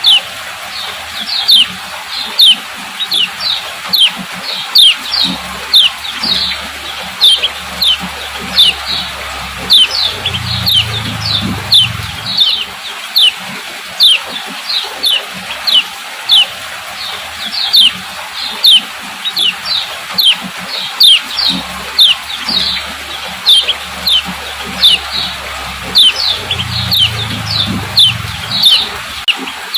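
Female lemon-bellied white-eye giving its 'ciak ciak' call notes: short, sharp chirps that sweep downward in pitch, repeated about twice a second without a break.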